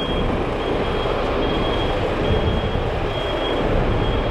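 Truck engine rumbling with a reversing alarm beeping steadily, about two short high beeps a second.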